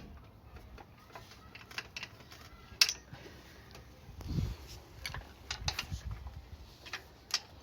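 Hand tools clicking and tapping against metal bolts and the motorcycle frame in scattered, irregular strokes. There is a sharper click about three seconds in and a dull low thump a little after four seconds.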